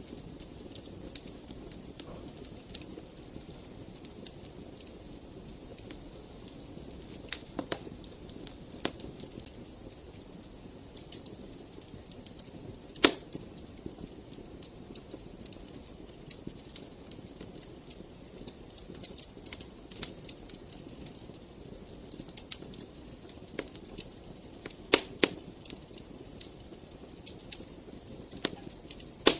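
Wood fire burning in a fireplace: a steady low rush of flame with irregular crackles and sharp pops, the loudest pop about halfway through and a few close together near the end.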